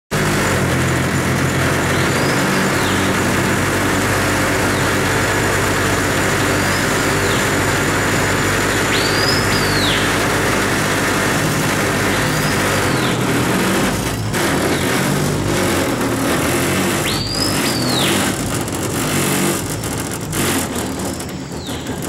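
Screaming piha (Lipaugus vociferans) calling several times, loud whistles that swoop up and then down, every few seconds over the steady drone of a boat motor running.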